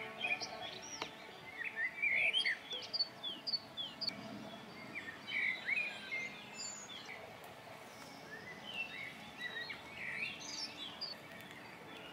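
Small songbirds singing: many short chirps and quick whistled glides, busiest in the first half and again near the end.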